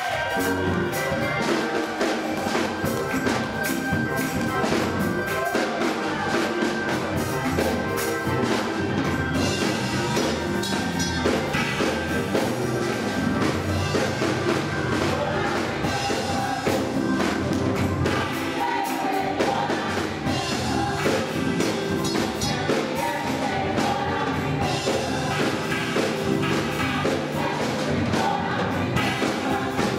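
Gospel choir singing with a live band, drums and percussion keeping a steady beat.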